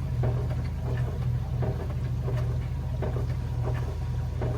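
Steady low mechanical hum with faint scattered clicks over it.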